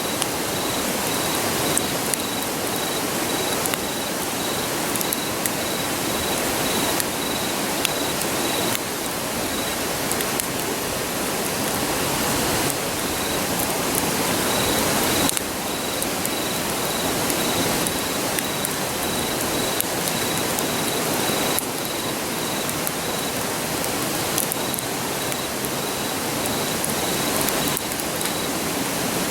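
Steady rushing of a river, with a campfire crackling and popping in sharp little snaps. An insect chirps in an even pulsing beat, high and faint, behind it.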